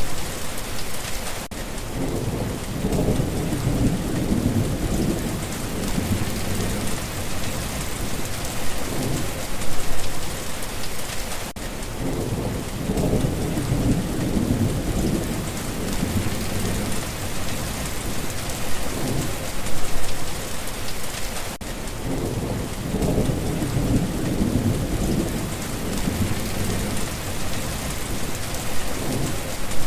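Steady rain falling, with low rolling thunder rumbles swelling about every ten seconds.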